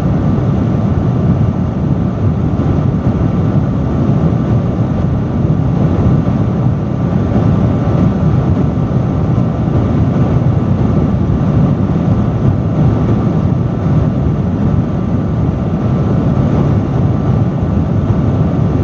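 Industrial fan running at a steady speed, a loud, even rush of air with a deep rumble and a faint steady hum on top.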